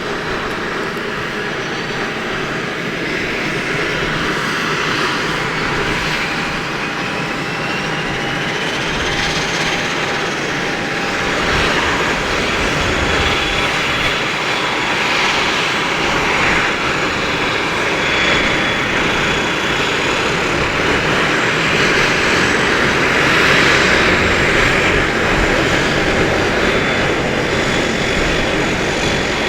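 Embraer EMB 120 Brasilia's turboprop engines running, a steady loud whine and rush of air, with a turbine tone rising in pitch over the first ten seconds or so and then holding steady while the sound slowly grows louder.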